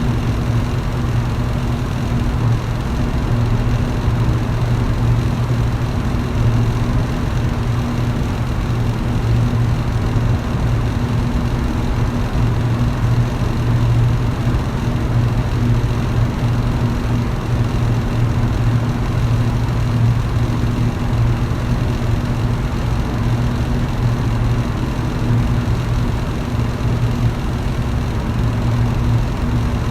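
Electric fan running steadily: a low, even motor hum under a constant rush of air, with no change through the stretch.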